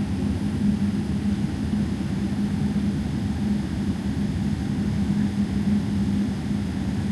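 Cabin noise aboard a Boeing 777-300ER airliner: a steady low drone of the jet engines and airflow, with a constant hum underneath.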